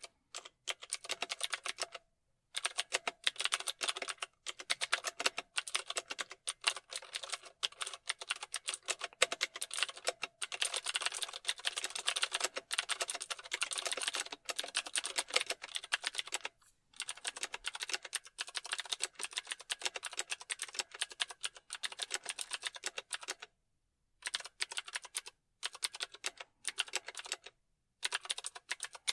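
Fast, steady typing on a computer keyboard: a dense run of key clicks, broken by a few short pauses of under a second.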